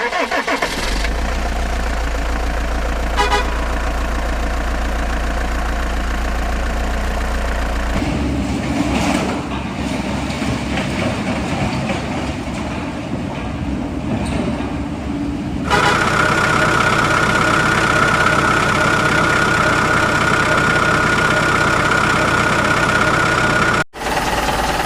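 Vehicle engines running steadily, with the sound changing abruptly twice. Over the last third a steady horn-like tone is held for several seconds.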